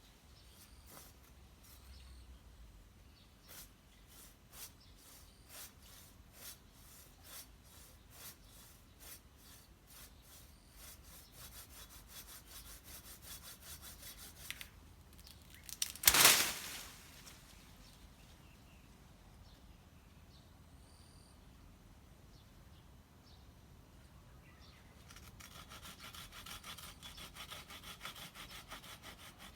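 Hand saw cutting through wood in back-and-forth strokes. The strokes start slow and quicken to several a second. One loud, short burst comes about halfway through, then a quieter pause, and fast sawing starts again near the end.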